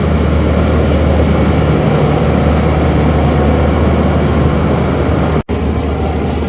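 The diesel generator sets of a Pakistan Railways power van running steadily: a loud, deep engine hum. It breaks off for an instant about five and a half seconds in.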